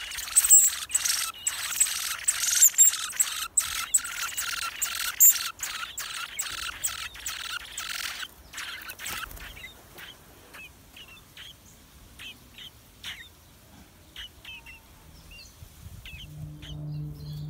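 Blackbird nestlings calling in the nest: a dense, shrill chorus of calls that breaks off about eight seconds in, then scattered single short chirps. Soft music with low steady tones comes in near the end.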